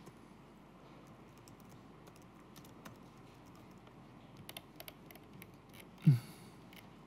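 Faint typing on a laptop keyboard, scattered keystrokes with a short run of louder taps about four and a half seconds in. About six seconds in comes a single brief, loud low thud that drops in pitch.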